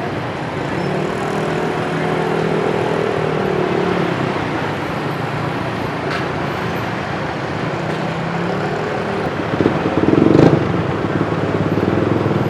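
Busy street traffic, with motorbike engines passing close one after another, each engine note rising and falling as it goes by. The loudest pass comes about ten seconds in.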